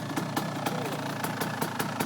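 Dirt bike engine idling, with a sharp tick repeating about four times a second.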